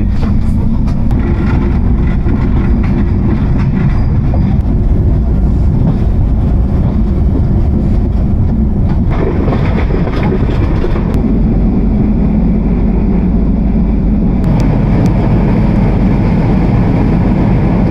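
Bangladesh Railway intercity passenger train running along the track, heard from an open carriage doorway: a steady, loud rumble of the carriage on the rails.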